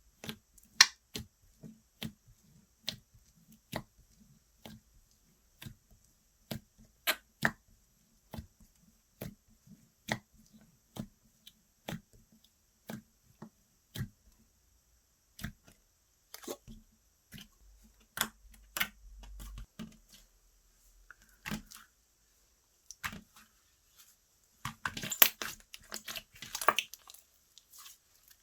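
Slime being worked by hand, giving sharp sticky clicks about once a second, then a denser run of crackling clicks near the end.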